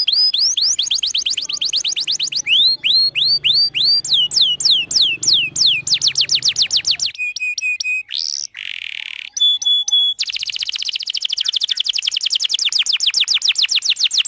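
Domestic canary singing a long, loud song of fast trills made of repeated falling notes. About halfway through it breaks into a few short level notes, a rising sweep and a buzzy note, then runs into a very rapid rolling trill.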